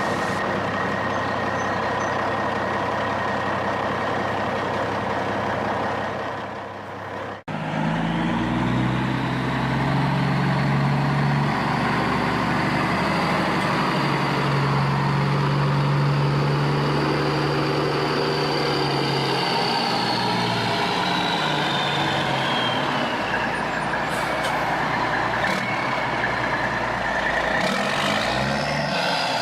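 Truck engine running steadily, cutting out sharply about seven seconds in and starting again at a different pitch, with a high whine that falls slowly about twenty seconds in.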